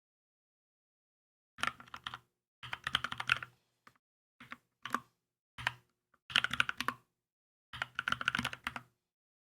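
Typing on a Keychron K2 mechanical keyboard. The keys come in six quick bursts of rapid keystrokes with short pauses between them, starting after about a second and a half.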